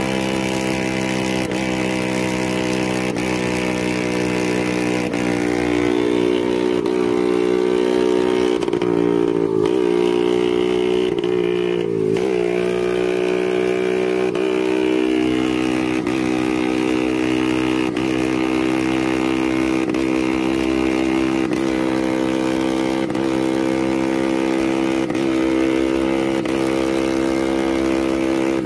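Motorbike or scooter engine running at a steady cruising speed on the road, its pitch dipping briefly twice about nine to twelve seconds in before settling back.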